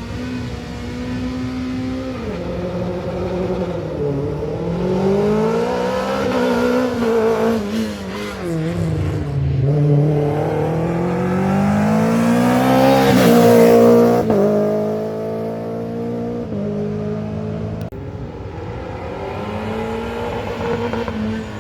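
Rally car engine running hard on a closed road stage, its pitch climbing and dropping several times with throttle and gear changes. It is loudest and highest about two-thirds of the way through, then falls away to a steadier, lower note.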